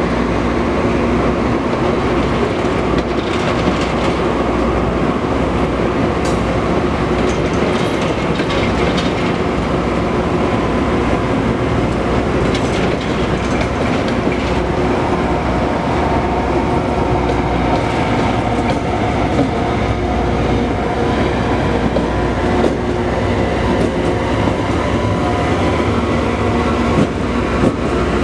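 LORAM rail grinder train rolling past at close range: a loud, steady mechanical din of its machinery and wheels on the rails, with a steady hum running through it.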